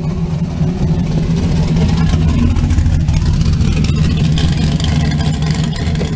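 A vehicle engine running steadily at low revs, a constant drone that neither rises nor falls.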